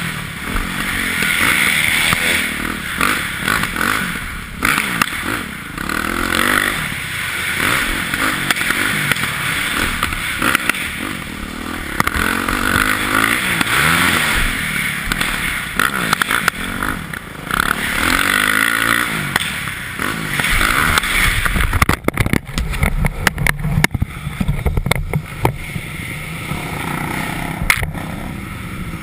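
Yamaha YZ450F single-cylinder four-stroke dirt bike engine revving up and down as it is ridden, the throttle opening and closing every second or two. About three-quarters of the way through it drops to a lower, rougher note with scattered clicks and knocks.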